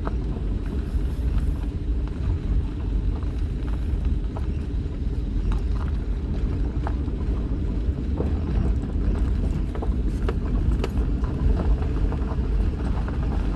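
A car driving on a rough back road: a steady low rumble of engine and tyres, with scattered small knocks and rattles.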